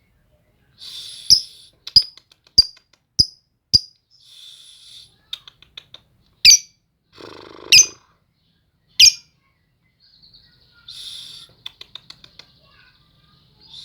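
Lovebird giving sharp, shrill chirps: five in quick succession about every half second in the first few seconds, then three more spaced further apart, with softer scratchy chattering in between.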